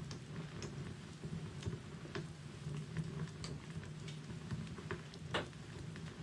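Wood fire burning in a fireplace, crackling with irregular sharp pops over a low steady rustle; the loudest pop comes near the end.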